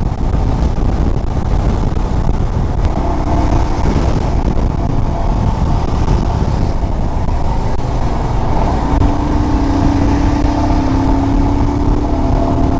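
Royal Enfield Himalayan motorcycle riding at highway speed, its engine running steadily under a heavy rumble of wind and road noise. A steady droning tone comes in briefly about three seconds in and again for the last few seconds.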